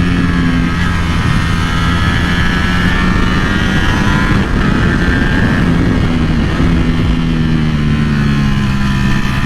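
Ducati Panigale V4R's 998cc V4 engine running under throttle, with wind noise. About four seconds in the engine note eases off briefly, then rises steadily again over the last few seconds.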